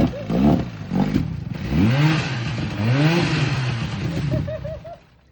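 Rebuilt Evinrude two-stroke outboard motor revved up and down several times by throttle blips, then cutting out about five seconds in.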